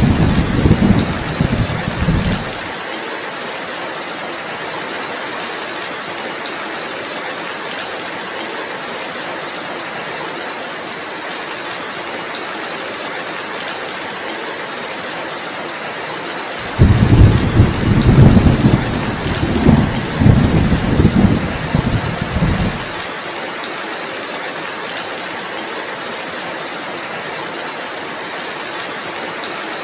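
Steady heavy rain, with thunder rumbling over it: one roll dies away in the first couple of seconds, and another starts suddenly about 17 seconds in and rumbles for about six seconds before stopping.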